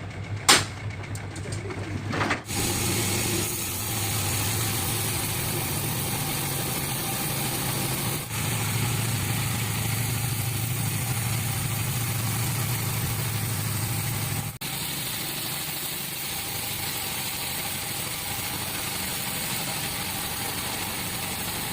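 An engine running steadily at a low hum, typical of sawmill machinery, with one sharp knock about half a second in.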